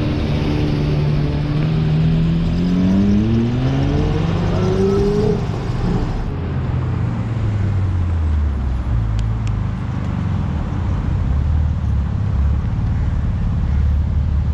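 Lamborghini Murcielago's V12 accelerating, its note rising steadily in pitch for about five seconds. After that comes a lower, steadier engine rumble from Porsche 911 Turbos moving at low speed.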